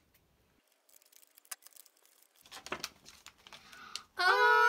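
A foil blind bag being torn open and crinkled: faint rustling with a few sharper crackles. About four seconds in, a loud steady pitched tone with several held notes starts and carries on.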